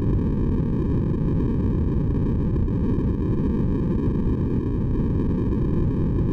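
Steady white-noise track for sleep, deep in tone with most of its energy in the low end, unchanging in level.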